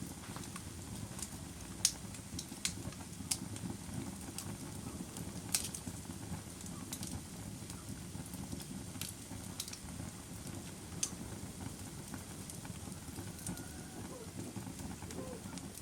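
Wood campfire burning: a steady low rush of flames with sharp crackles and pops every second or so, the loudest about two and five and a half seconds in.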